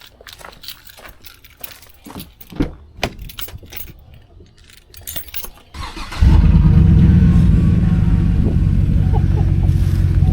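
Light clicks and rattles, then about six seconds in a Chevy Silverado's engine starts and runs loud and steady with its muffler cut out of the exhaust.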